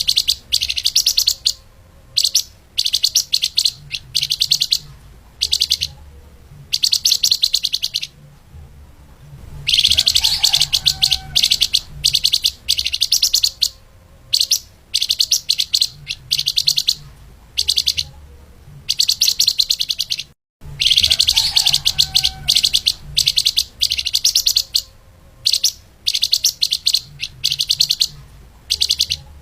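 Flamboyan (lemahan) songbird singing fast, dense chattering trills in bursts of about a second, repeated with short gaps. The song cuts out completely for a moment about two-thirds of the way through.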